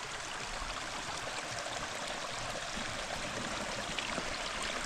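Small desert stream running with little waterfalls, a steady even splashing of water.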